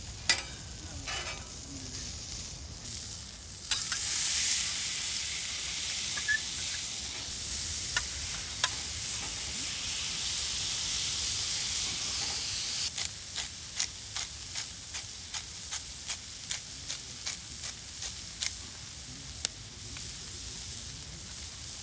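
Food sizzling in a hot cast-iron pan over a campfire, starting suddenly about four seconds in as it hits the pan and dying down after about eight seconds. Then a run of short sharp clicks, one or two a second.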